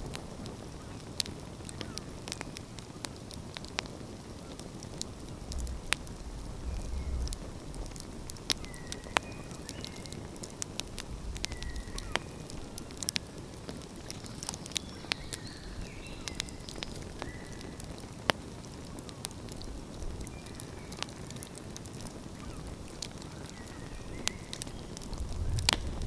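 Wood fire crackling, with frequent sharp pops. Short bird calls come at intervals in the background, and a low rumble rises near the end.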